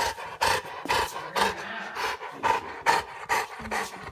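Dog panting in quick, regular breaths, about two a second.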